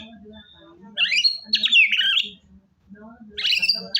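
White-rumped shama (murai batu) singing: two loud phrases of rapid, sweeping whistled notes, the first about a second in and the second near the end.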